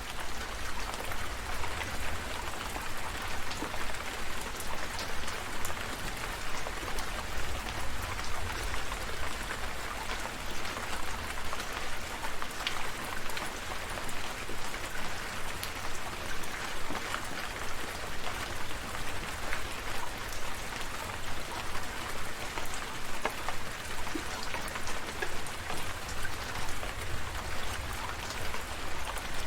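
Steady rain falling, with many small, distinct drop ticks on a surface over a constant low rumble.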